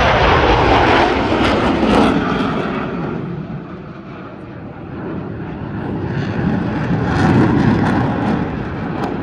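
Airplane engine noise from an airshow flypast: loud in the first two seconds, fading around four seconds in, then building again about seven seconds in.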